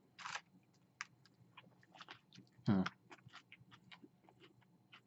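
Close-up chewing of a crispy chicken tender sandwich: irregular wet clicks and small crunches, with one louder mouth sound about two and a half seconds in.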